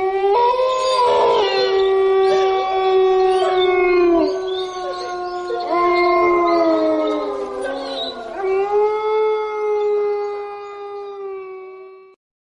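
Eerie howling: several long, wailing tones overlapping at a steady pitch, each sliding down as it fades, with new ones rising in about half a second, six and eight and a half seconds in, a sound attributed to a cave. It cuts off abruptly near the end.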